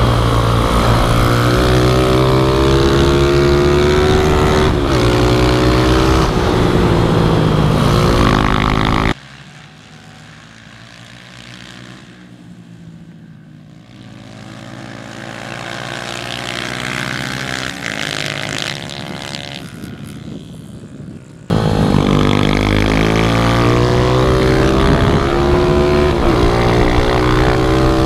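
Pit bike engine revving up and down as the bike is ridden hard, pitch rising and falling with each gear and corner. About nine seconds in the sound drops abruptly to a much quieter, more distant engine that slowly grows louder, and the loud close engine returns just as abruptly about twenty-one seconds in.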